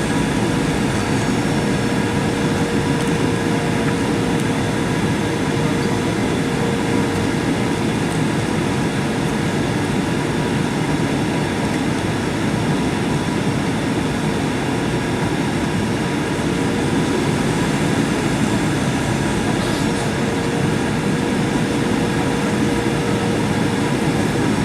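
Steady jet airliner noise heard inside a Boeing 737-800: engine and airflow rumble with a faint steady whine, no sudden events.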